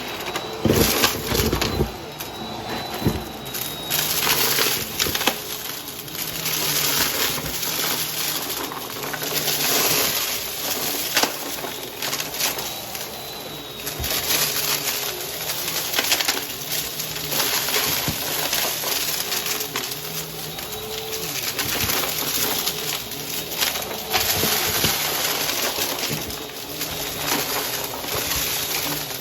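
Vacuum cleaner running over a carpet strewn with crunchy debris, crackling and clicking as bits are sucked up and rattle through, its rush swelling and easing with each back-and-forth stroke.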